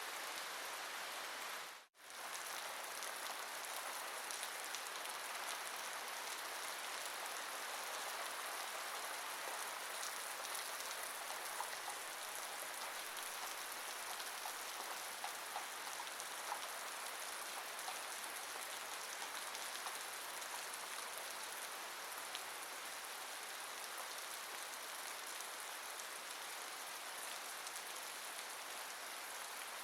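Steady rain falling: an even hiss with scattered drop ticks. It cuts out for a split second about two seconds in.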